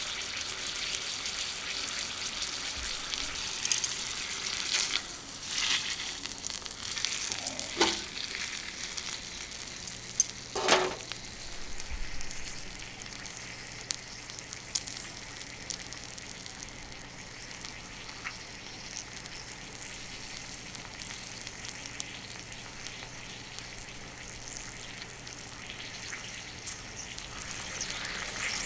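Sirloin steak sizzling on a hot iron griddle plate, a steady hiss. It is livelier in the first ten seconds, with a few short louder bursts, then settles into a quieter, even sizzle.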